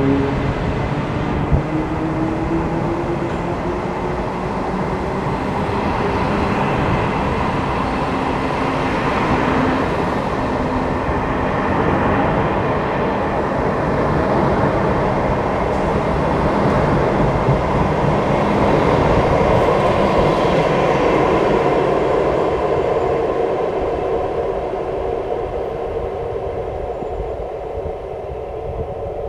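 Taiwan Railways Chu-Kuang express passenger coaches rolling along the platform, with a steady rumble of wheels on the rails. The sound eases off in the last few seconds as the end of the train clears.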